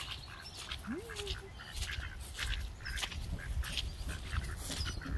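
Ducks quacking, many short calls in quick succession, with one brief rising call about a second in.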